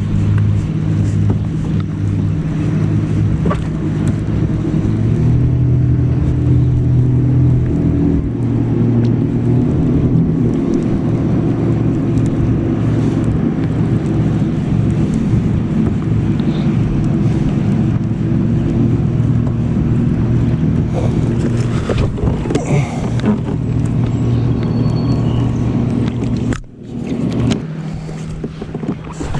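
Motorboat engine running steadily, its pitch shifting now and then, dropping away sharply near the end.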